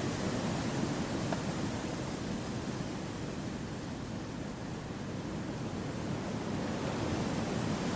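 Steady rushing of wind through forest trees, easing a little midway and swelling again toward the end.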